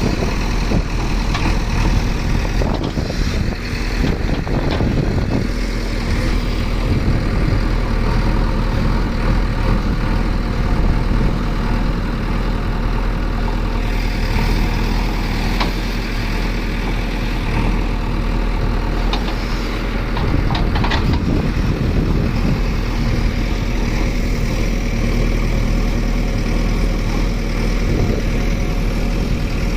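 Heavy diesel machinery running steadily: the engines of a JCB 3DX backhoe loader and a tractor. A few brief clatters and knocks rise over the hum now and then.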